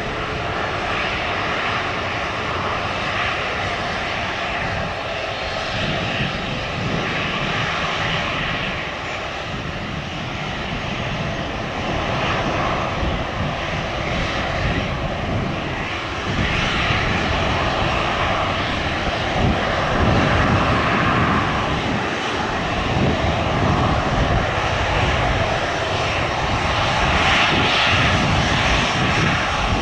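Airliner's engines running: a loud steady rush with a constant whine over it, growing slightly louder toward the end.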